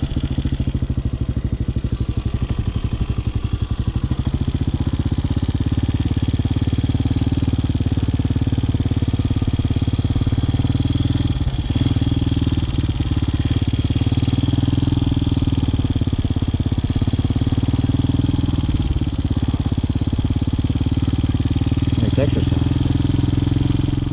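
Motorcycle engine running steadily at low revs, its firing pulses giving an even, fast throb.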